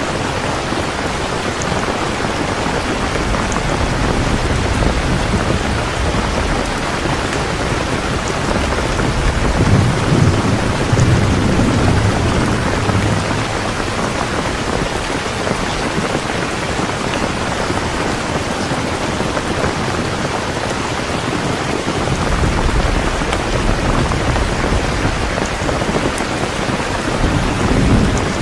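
Heavy rain falling steadily, with low rolls of thunder rumbling up twice: once about a third of the way in and again near the end.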